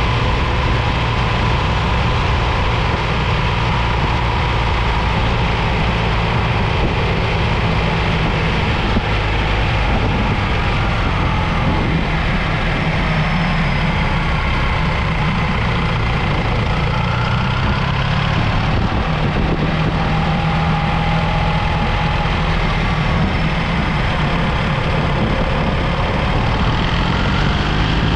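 BMW R 1300 GS boxer-twin motorcycle engine running steadily under way, its note drifting up and down and rising near the end.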